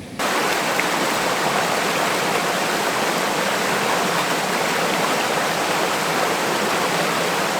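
Fast-flowing creek water rushing steadily over rapids, a loud even rush that comes in abruptly right at the start.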